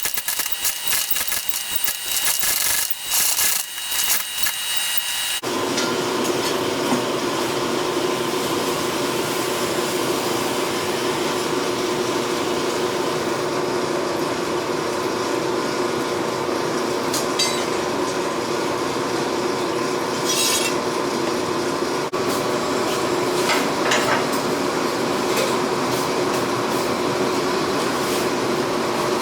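Clattering metalwork noise for about five seconds, which stops abruptly. It gives way to a steady machine drone with a rubbing noise and a few held tones, broken now and then by a brief scrape.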